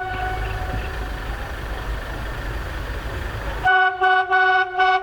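A train running past with a low rumble while its horn sounds faintly. About three and a half seconds in, the horn comes in loud as a series of short blasts, about two a second.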